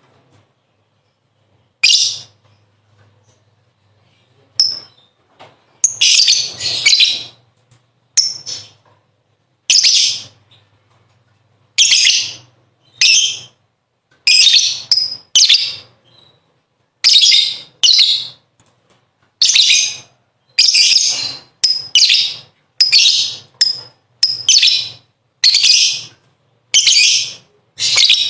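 Lovebird singing its 'ngekek' song: short, loud, shrill bursts of high chattering, repeating every second or two, some in quick pairs, and coming closer together from about the middle on.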